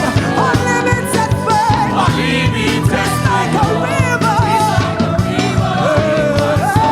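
Live gospel praise-and-worship music: a church band with a steady drum beat and bass under a wavering sung melody.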